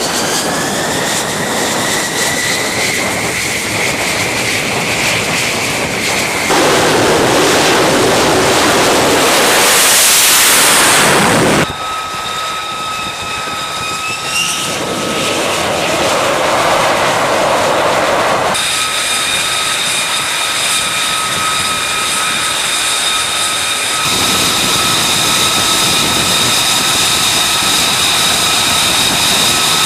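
F-35 fighter jet engine sounds across several abrupt cuts: a turbine whine rising in pitch over the first few seconds, stretches of loud jet roar, and a steady high-pitched whine in between.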